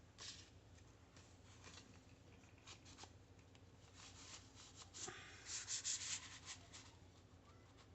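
Faint rustling and light taps of paper and card being handled. It comes in short bursts, loudest a little past the middle.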